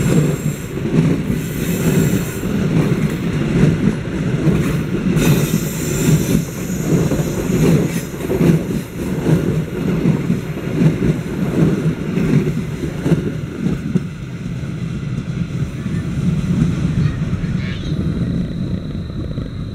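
Passenger train coaches rolling past close by, their wheels clattering in a repeated rhythm over the rail joints; the sound eases off over the last few seconds as the final coach draws away.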